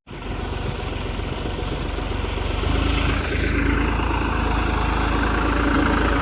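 New Holland 3630 tractor's diesel engine running on the move. It comes in after a momentary gap and gets louder and heavier about two and a half seconds in.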